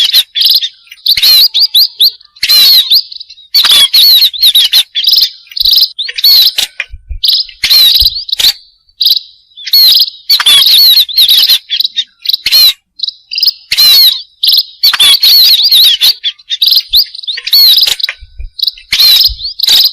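Small finches of the kind called burung pipit (munias) chirping loud and close: dense bursts of high-pitched twittering, broken by short gaps about once a second.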